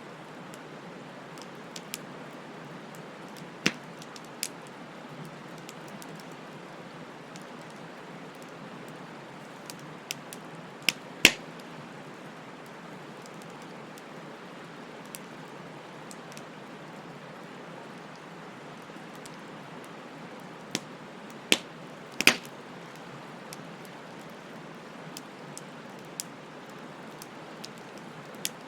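Bonfire crackling: a steady soft hiss of burning wood with irregular sharp pops and snaps, the loudest pops about eleven and twenty-two seconds in.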